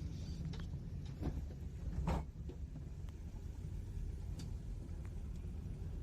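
Steady low rumble of a moving road vehicle, with a sharp knock about two seconds in and a few fainter clicks.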